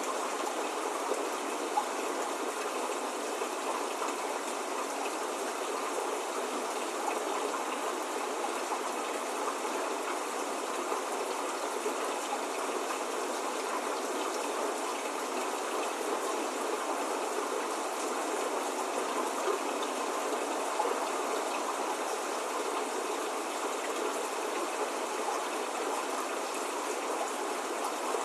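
Steady spring rain falling, an even hiss with a few louder single drops, with no thunder or birdsong.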